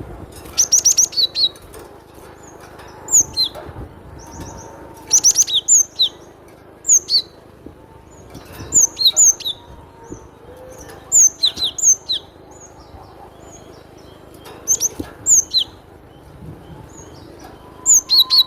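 Cinereous tit (glatik batu) singing: short, sharp, high notes given in quick clusters, repeated every one to two seconds.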